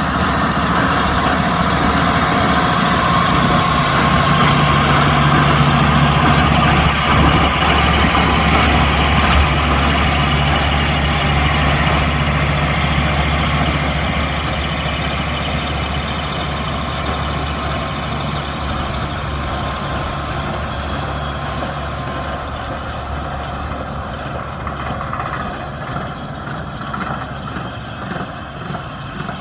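Kubota M125X diesel tractor running steadily while working a baler, with engine hum and machinery clatter. The sound is loudest in the first half and eases off gradually after about halfway.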